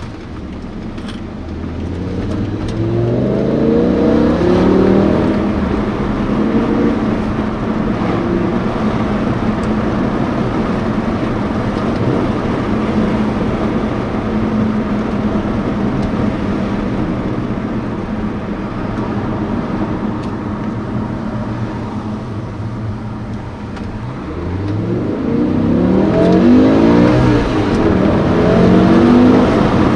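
BMW M5 E60's V10 engine heard from inside the cabin, pulling hard with its pitch climbing a few seconds in, then running steadily with road noise, and climbing again in a second long rise near the end.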